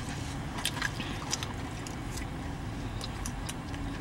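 Close-up chewing of a mouthful of food, with scattered short wet mouth clicks and smacks over a steady low hum.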